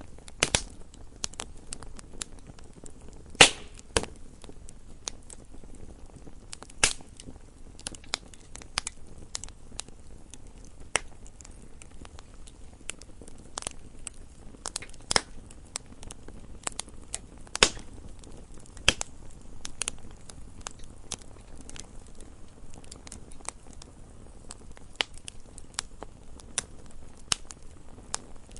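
Wood fire in a fireplace burning and crackling, with irregular sharp pops and snaps, the loudest about three and a half and seven seconds in, over a low, quiet hiss of the flames.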